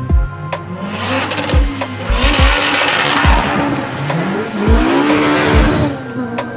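Honda Civic EP3's K20 four-cylinder VTEC engine accelerating hard past, its revs climbing twice with a dip between, loudest about three seconds in.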